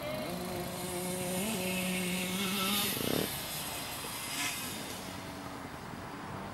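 Small engine of a child's mini motocross bike running, its pitch stepping up about one and a half seconds in as the throttle opens, then dropping back and fading after about three seconds.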